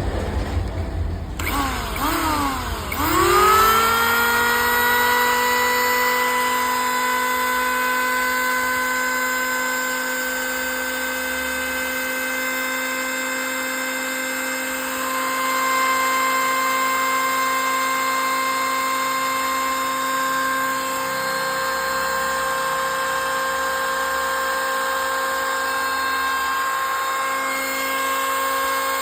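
Stanley 750 W electric planer's motor spinning up about three seconds in after a low rumble, then running steadily with a high whine.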